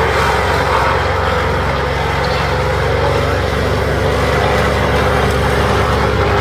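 A large engine running steadily, a loud, even low drone.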